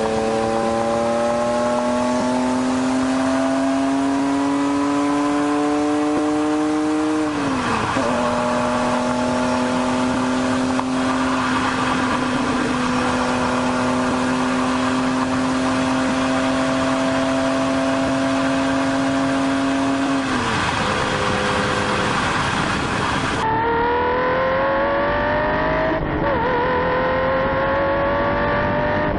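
Lamborghini Diablo V12 engine accelerating hard, its pitch climbing through the gears with sharp drops at upshifts about seven and twenty seconds in. After a cut, a second run climbs again with another shift near the end.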